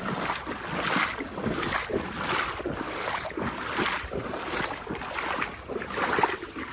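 Legs wading through knee-deep floodwater, with a sloshing splash at each stride, about one a second.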